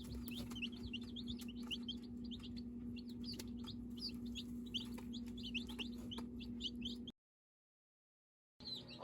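A brood of Brahma chicks peeping, many short high chirps overlapping continuously, over a steady low hum. The sound cuts out completely for about a second and a half near the end.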